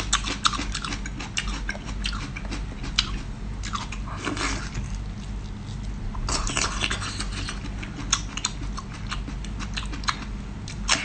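Close-miked chewing and biting of raw seafood, a steady run of small wet clicks and mouth smacks.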